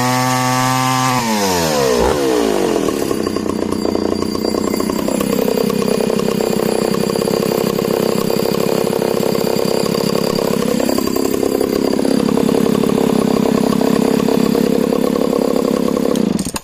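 Echo CS-602VL chainsaw at full throttle. Its high, even note falls from about a second in as the chain bites into wood and the engine pulls down under load. It dips lower again for several seconds, climbs back, and cuts off abruptly near the end.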